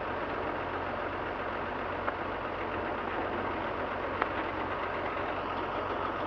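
JCB JS215LC excavator's diesel engine idling steadily, with two light clicks about two seconds apart.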